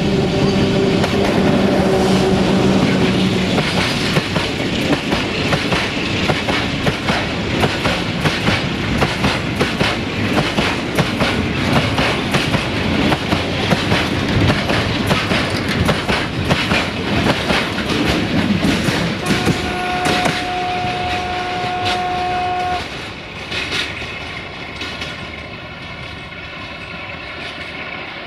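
Freight train of oil tank wagons rolling past, the wheels clattering over the rail joints in a dense run of clicks. The LDE2100 diesel locomotive's horn sounds at the start, dying away after about three seconds, and again as a steady blast of about three seconds two-thirds of the way through, after which the clatter grows quieter.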